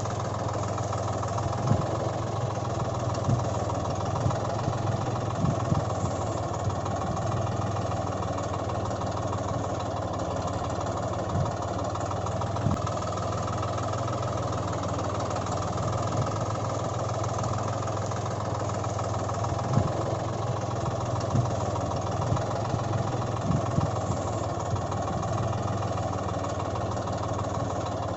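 Engine idling steadily, with short irregular knocks now and then.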